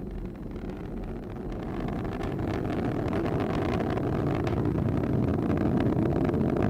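Atlas V 411 rocket's RD-180 main engine and single solid rocket booster in ascent: a deep rumble with crackle, growing louder about two seconds in.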